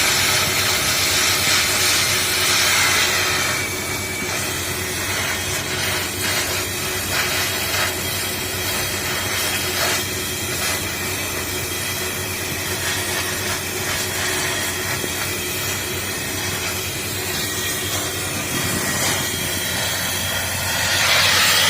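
Toyota Prado engine running with its exhaust deleted, giving a loud, raw exhaust note with a hissing edge. It is louder for the first few seconds and again near the end, steady in between.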